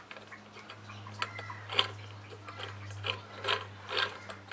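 A failed turbocharger's shaft being turned by hand, its wheel scraping and clicking irregularly against the housing because the shaft is bent. A steady low hum runs underneath.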